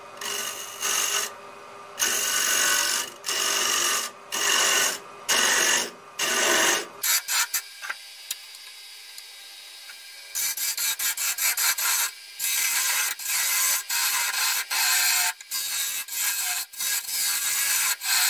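Carbide-tipped turning tool cutting a spinning chestnut-wood bowl blank on a lathe in repeated short passes, a loud scraping that comes and goes. Around seven seconds in the cutting stops for about three seconds and only the lathe's steady running hum is left, then the passes start again.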